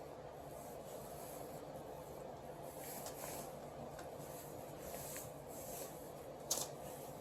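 Soft rubbing and scraping of parts being handled over a steady low hum, with one sharp click about six and a half seconds in.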